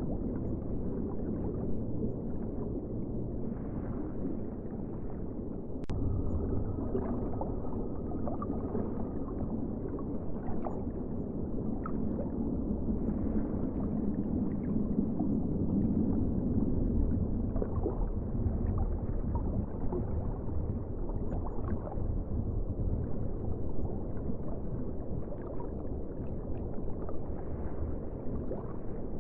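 Ocean water ambience: a steady low rumble and wash with faint gurgles and small scattered clicks.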